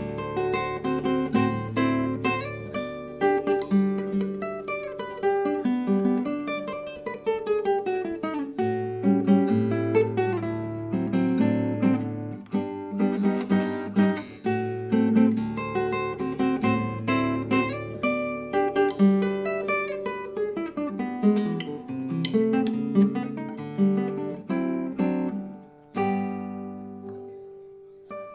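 Acoustic guitar music: plucked notes and strummed chords, with a descending run partway through and a held chord dying away near the end before playing starts again.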